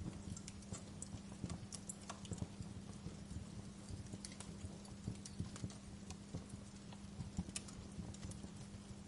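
Wood fire crackling in a fireplace: irregular small pops and snaps over a steady low hum.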